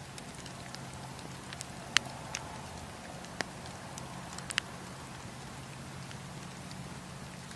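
Wood campfire crackling: scattered sharp snaps and pops over a steady low rumble, with three louder cracks about two, three and a half, and four and a half seconds in.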